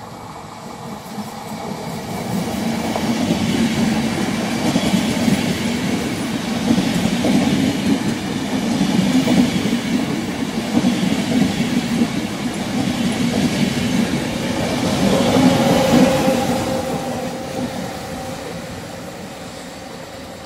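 Trenitalia regional push-pull train passing through the station, pushed by an E.464 electric locomotive at the rear: the wheels clatter over the rail joints, growing louder as the coaches go by. A steady tone joins about three-quarters of the way in as the locomotive passes, and the sound then fades away.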